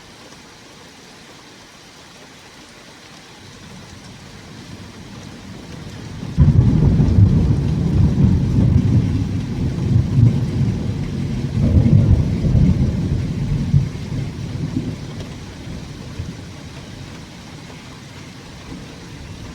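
Thunder in a thunderstorm over steady rain: a low rumble builds, breaks into a sudden loud clap about six seconds in, rolls on in waves for several seconds, then fades back to the rain, picked up by an old phone's microphone.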